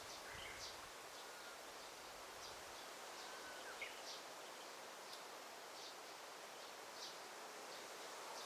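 Daytime forest ambience: birds giving short high chirps every second or so, with a few thin whistled notes, over a steady soft hiss.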